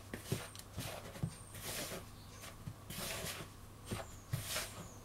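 Chicken pieces being worked by hand in a bowl of seasoned flour coating. There are irregular rustling, dusty scrapes and soft knocks, about one or two a second, with a few faint high squeaks.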